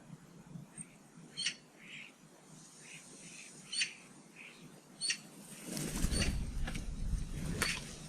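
Common starlings at a garden feeder: three short, sharp calls with softer chirps between them, then, about six seconds in, a louder flurry of wing flapping and rustling.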